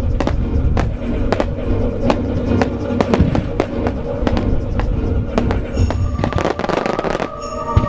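Starmine fireworks shells bursting in quick succession, about two or three sharp bangs a second, with a dense crackling flurry about six seconds in and one heavy bang near the end. Music plays underneath, and strong wind rumbles on the microphone.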